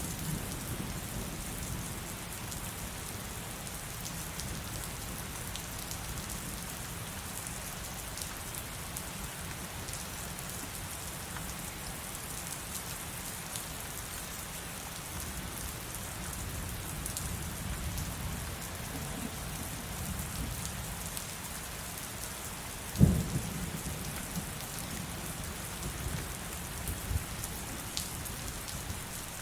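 Heavy rain pouring steadily, with thunder rumbling low underneath. About 23 seconds in, a sharp thunderclap cracks loud and rolls away, and a few smaller rumbles follow near the end.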